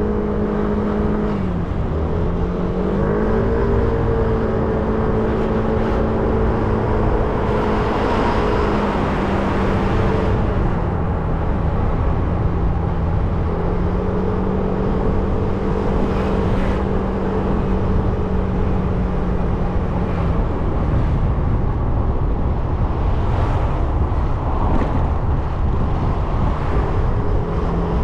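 A 300 cc motorbike engine running while riding, its pitch dipping and rising with throttle changes, over steady wind rush.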